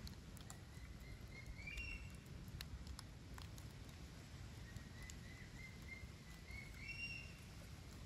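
A bird calls twice, each call a run of short whistled notes climbing in pitch, faint over a low outdoor rumble, with scattered light clicks.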